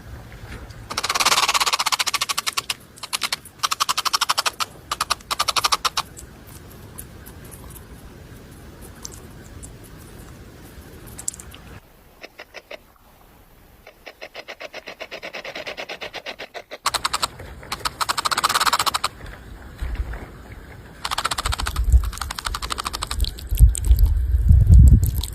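Rattlesnake rattling its tail in several buzzing bursts of very rapid clicks, each lasting one to three seconds.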